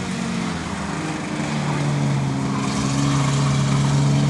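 Racing stock trucks' engines running steadily as they lap an oval speedway, with one engine's tone growing stronger about a second and a half in.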